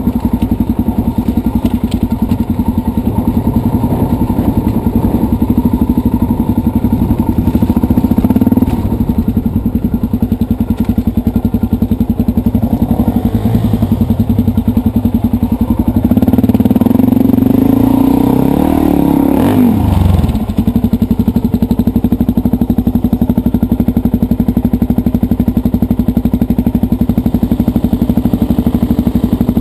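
Dirt bike engine idling steadily close by. About halfway through it is revved, the pitch rising for a few seconds before it cuts back to idle.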